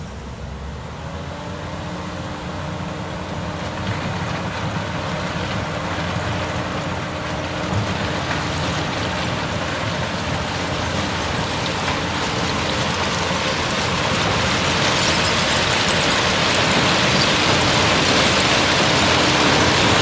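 Heavy diesel engine of earthmoving machinery running steadily, growing louder throughout.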